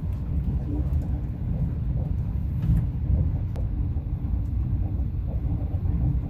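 Lao-China Railway passenger train running, heard inside the carriage as a steady low rumble.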